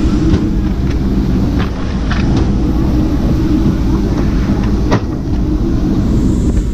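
Steady low rumble of a vehicle heard from inside it, with a few short clicks and knocks.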